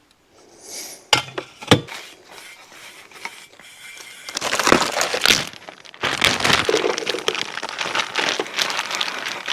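A couple of sharp clinks, then a dense crackling hiss from about six seconds in: potatoes sizzling on a Blackstone flat-top griddle.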